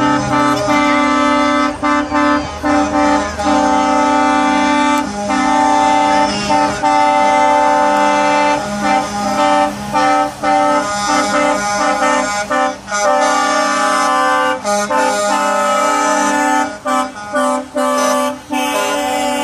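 Truck air horns sounding in long, held blasts broken by short gaps, several horns at once at fixed pitches.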